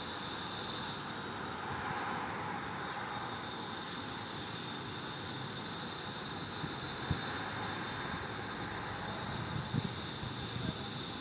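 Steady background rumble of distant city traffic, swelling slightly a couple of times, with a thin steady high tone and a few faint knocks.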